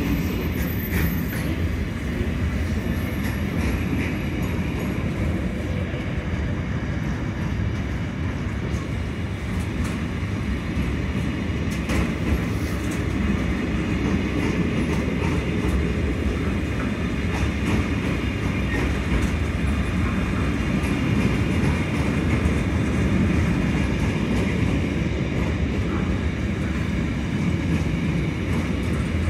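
Container freight train's loaded flat wagons rolling past in a steady rumble, with light clicks of wheels over rail joints.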